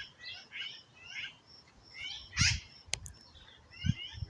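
Black-billed magpies calling: a run of short, rising squeaky calls several times a second, with one louder call about two and a half seconds in and a sharp click just after it.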